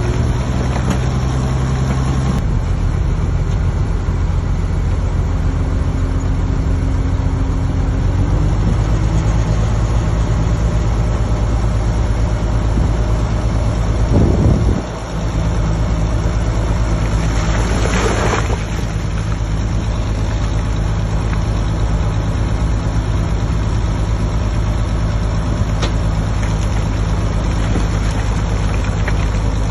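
Heavy earthmoving machine's diesel engine running steadily, with a brief hiss about eighteen seconds in.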